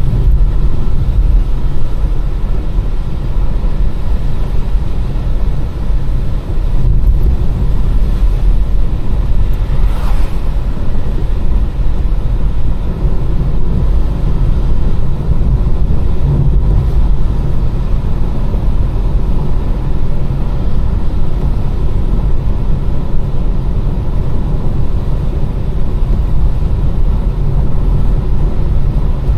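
Car being driven on a rain-wet road: a steady low rumble of engine and tyre road noise, with a couple of faint knocks about 7 and 10 seconds in.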